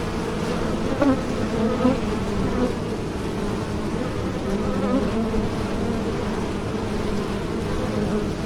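Bees buzzing in flight: a steady droning hum, with a few louder buzzes swelling briefly about one, two and five seconds in as bees pass close.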